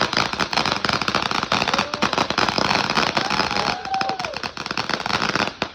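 Consumer firework going off in a dense, rapid crackle of pops that stops suddenly near the end.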